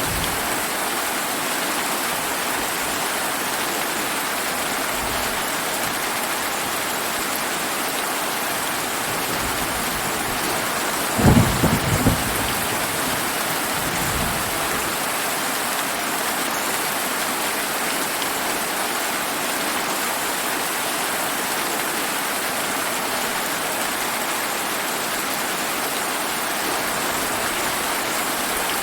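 Steady heavy rain falling, with a short clap of thunder about eleven seconds in, a few quick cracks with a lower rumble trailing off about three seconds later.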